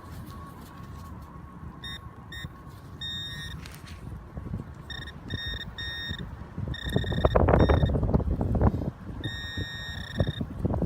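Metal detector giving a string of short, steady-pitched beeps over a target, some in quick succession and one longer beep near the end. About seven to nine seconds in, a loud rough rumbling noise of wind and handling on the microphone rises over it.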